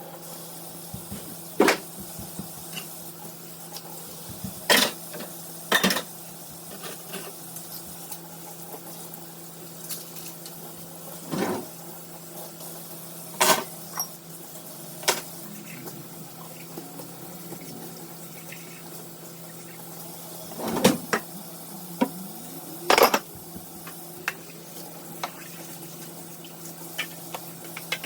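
Dishes clattering in a kitchen sink as they are washed by hand, with about a dozen sharp clanks scattered through and the loudest two near the end, over a steady low hum.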